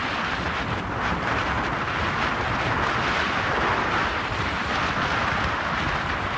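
Steady wind rushing over the microphone, with the low rumble of a moving vehicle beneath it.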